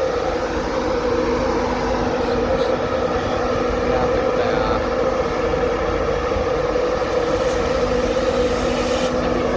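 A train standing or moving slowly at a station platform, its engine or traction equipment giving a steady hum over a low rumble.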